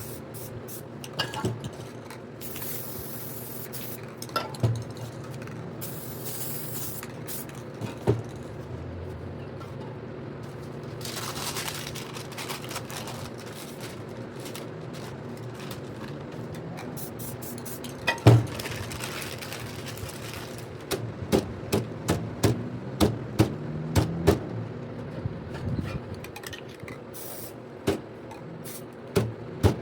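Aerosol spray paint cans hissing in several short bursts, with many sharp clicks and knocks that come thick and fast near the end, over a steady low hum.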